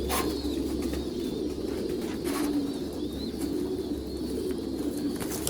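Many domestic pigeons cooing together in a loft, a dense, steady chorus, with a few short sharp noises now and then.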